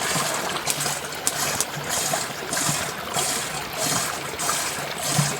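Rushing, water-like noise that swells regularly about twice a second, with a few sharp clicks.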